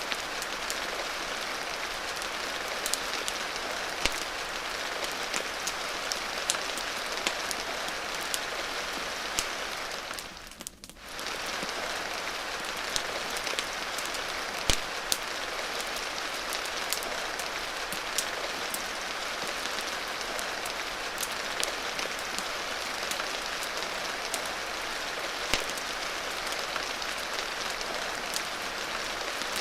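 Steady rain with scattered sharp pops and crackles from a wood fire mixed in. The sound briefly drops away and comes back about ten seconds in.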